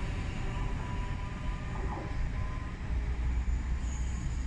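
Great Western Railway Class 800 bi-mode train pulling away and receding, a steady low rumble from its underfloor diesel engines and wheels on the track.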